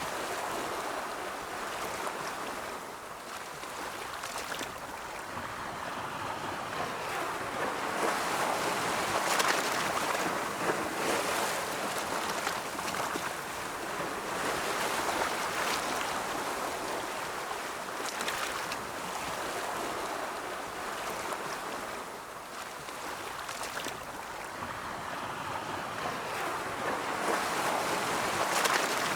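Ocean surf: waves rolling in and washing back as a continuous rushing hiss that swells and eases over several seconds, building to louder surges in the middle and near the end.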